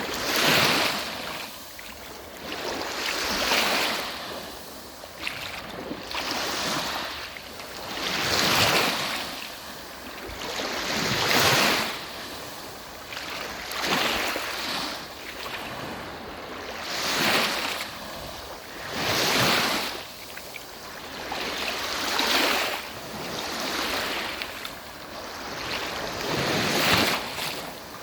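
Sea waves breaking and washing up on the shore, one swell of surf every few seconds.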